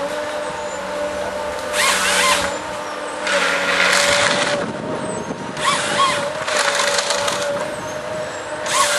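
Tree-felling harvester at work: its engine and hydraulics run steadily with a constant whine, under five or six bursts of cracking, crunching wood as the head grips, strips and cuts the tree.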